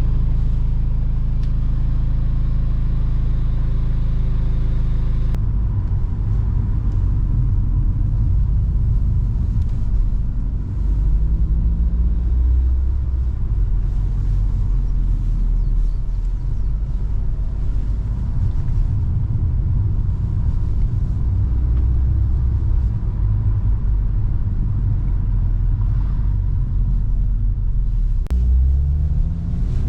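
Audi S3 8V's turbocharged 2.0-litre four-cylinder engine and exhaust: a steady engine note for about five seconds, then the car pulls away under hard throttle, with the engine pitch climbing twice, about a third of the way in and again near the end.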